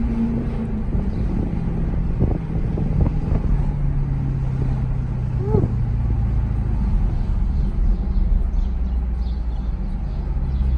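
Supercharged 6.2-litre V8 of a Jeep Grand Cherokee Trackhawk with a Borla ATAK cat-back exhaust, droning low and steady while driving at light throttle, its tone dropping slightly about a second in.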